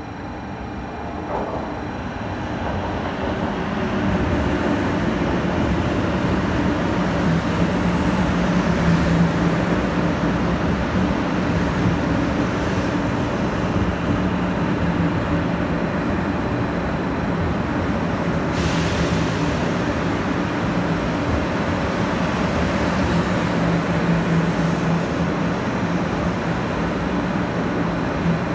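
500 Series Shinkansen pulling into the platform and gliding past close by as it slows to a stop. It swells over the first few seconds into a steady rumble of wheels on rail with a low hum, and a brighter hiss joins past the middle.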